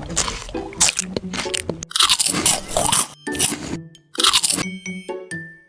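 A series of loud crunching bites into hard, crunchy food, about eight in all, with a brief pause about four seconds in. Background music plays under them.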